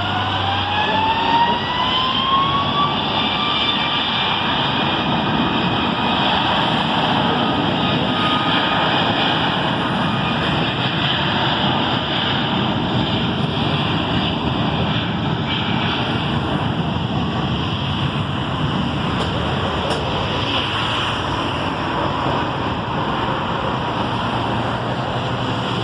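Boeing 737 MAX's CFM LEAP-1B turbofan engines spooling up to takeoff thrust: a whine rises in pitch over the first few seconds, then holds steady over a loud, continuous rush of jet noise.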